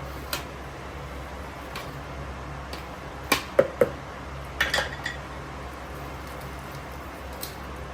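Kitchenware knocking and clinking: a few scattered sharp clinks, with a quick cluster of them around the middle, over a steady low hum.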